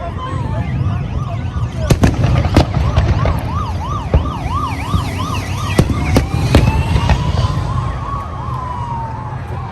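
Emergency vehicle siren over New Year fireworks: a fast yelp of rapid up-and-down sweeps, then a slow wail rising and falling. Sharp fireworks bangs come a few times over a steady low rumble of distant explosions.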